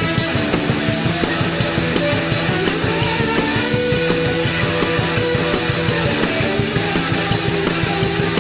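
Rock band playing a song: guitar over a steady drum beat.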